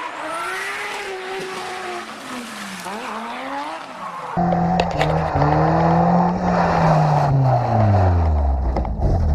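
Car engine sounds with the pitch rising and falling. About four seconds in, a sudden switch to a louder engine whose pitch falls steadily.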